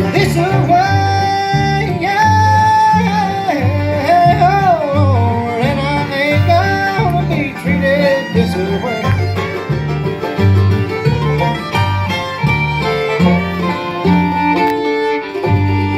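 Bluegrass band playing an instrumental break: a fiddle leads with sliding, bending notes over guitar and a steady beat of bass notes.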